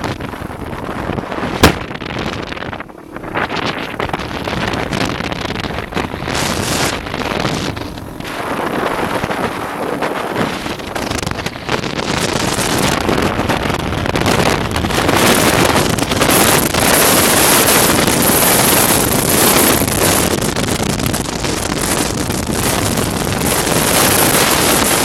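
Heavy wind buffeting the microphone over the running of a motocross bike, getting louder about halfway through.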